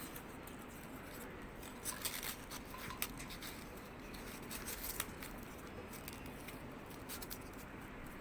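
Folded paper rustling and crinkling as an origami unit is handled and slid into another unit's pocket, with a few short sharp crackles about two, three and five seconds in, over a steady faint hiss.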